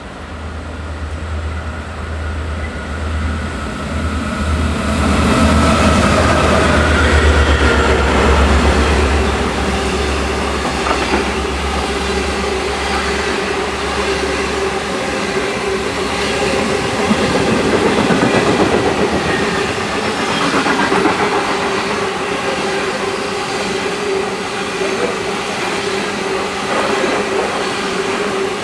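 A long diesel-hauled passenger train passing through a station at speed. The lead diesel-electric locomotives, NR18 and DL40, come up with a loud low engine drone that peaks and fades by about halfway. The line of passenger cars then rolls past with a steady clatter of wheels over the rail joints.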